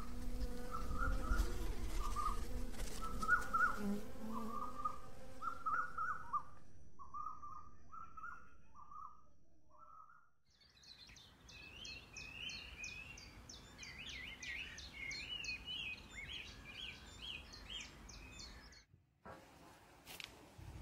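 Birds chirping. First comes a bird repeating short chirps, roughly two a second, over a low rumble. After a brief break about halfway through, a higher-pitched song of quick notes follows.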